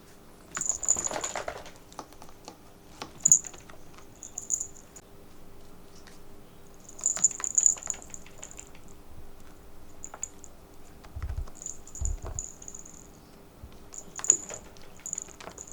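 Light clicks and taps in short clusters with small high jingles, as a cat plays with and bats at a cotton swab on a tabletop. Two soft low thumps come about eleven and twelve seconds in.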